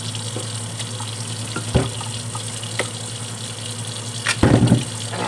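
Kitchen tap running steadily into a sink. There is one knock a little under two seconds in, and a short clatter of several knocks near the end.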